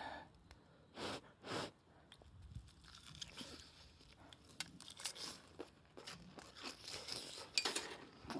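Crunchy bites into freshly fried breaded seafood, followed by chewing: two loud crunches about a second in, fainter crackly chewing after them, and another sharp crunch near the end.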